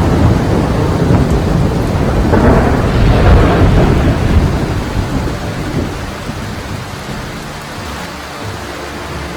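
Thunder rumbling over steady rain: the rumble swells to its loudest a few seconds in, then dies away, leaving the hiss of rain.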